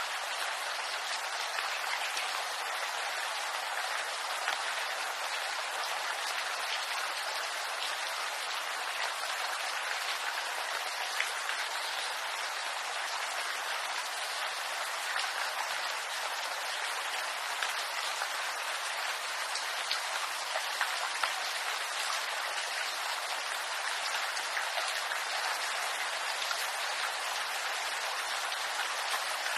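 Steady rain falling on bamboo leaves: an even hiss sprinkled with faint, scattered drop taps.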